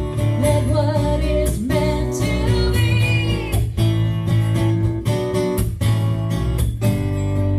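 Live country-style song: acoustic guitar strumming steadily, with a woman's sung phrase over it in the middle.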